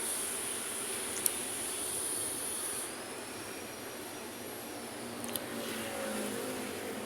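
City road traffic going by: a steady rush with a high-pitched whine, a gliding high tone in the middle, and a vehicle's note falling in pitch as it passes near the end. Two sharp clicks, one about a second in and one just past five seconds.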